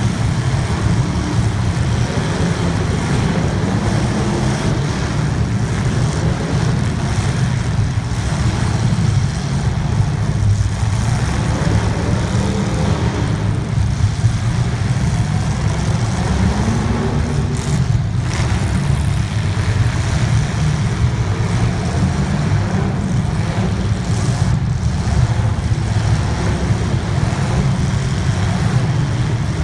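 Race car engines running continuously through a feature race, the sound heavy in the low end, with one brief rise in pitch about halfway through.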